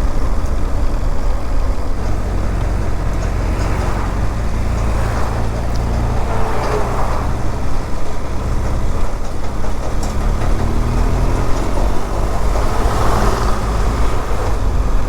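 BMW R1200GS boxer-twin engine running at road speed, heard through a helmet microphone with heavy wind and road rumble. The noise swells twice, about five and thirteen seconds in.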